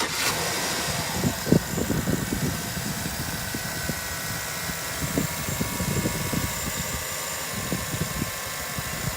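2008 Chevrolet C1500 Silverado pickup's engine running at a steady idle.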